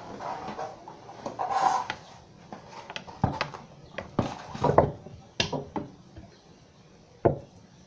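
Porcelain toilet tank lid being handled, lifted and set down, giving a series of hard clinks and knocks, ceramic on ceramic.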